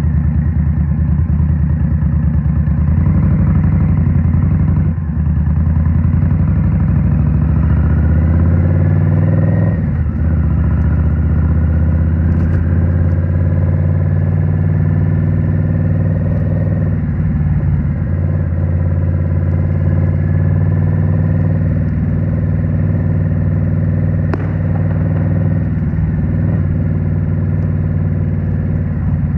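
Indian Scout Rogue's 69 cu-in V-twin through a Rinehart slip-on exhaust, accelerating with rising pitch and shifting up about five and ten seconds in, then cruising at a steady pitch.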